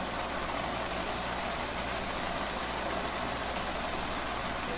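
Steady sizzle of chopped tomatoes, onion, bell pepper and garlic cooking in a pan, with faint crackles over a low hum.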